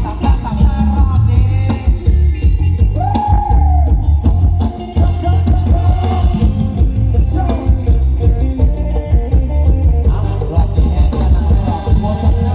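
Loud live procession music from a Thai rot hae sound-truck band: a voice singing over heavy bass and a steady drum beat, recorded through a phone's microphone.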